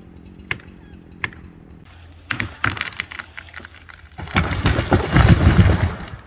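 A cut silver maple giving way: a few sharp single snaps, then a quickening run of cracking wood a couple of seconds in, ending in a loud, heavy crash as the tree comes down, about two seconds long.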